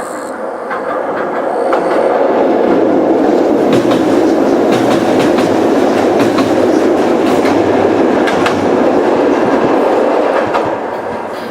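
Ichibata Electric Railway 2100 series electric train (ex-Keio 5000 series) passing close by, its wheels clicking over the rail joints. The rumble builds over the first couple of seconds, holds steady, and eases off near the end.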